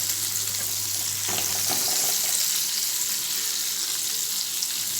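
Breaded chicken pieces deep-frying in hot oil, a steady sizzle.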